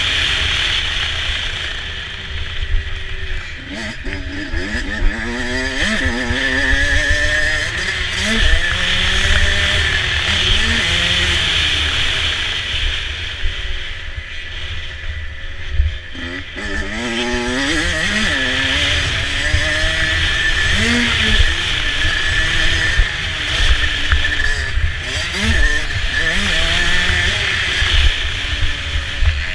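Motocross dirt bike engine racing, its pitch rising again and again as the throttle is opened and the gears are worked, then falling back, over a heavy low rumble.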